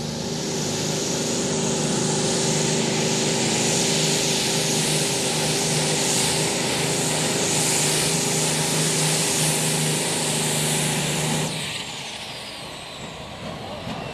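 Modified pulling tractor's engines at full throttle, a loud, steady howl held through a pull. It cuts off sharply about eleven and a half seconds in, leaving falling whines as the engines wind down.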